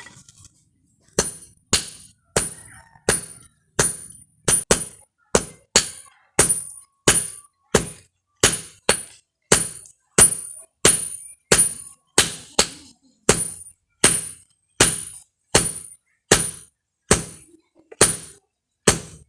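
Hand hammer striking steel in steady blows, about three every two seconds, each blow leaving a short high metallic ring.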